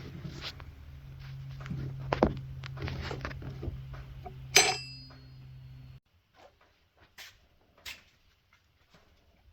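Hand tools and small metal parts being handled at a workbench: scattered clicks and knocks, and one loud metallic clank with a brief ring about four and a half seconds in. A steady low hum under it cuts off suddenly about six seconds in, leaving only faint ticks.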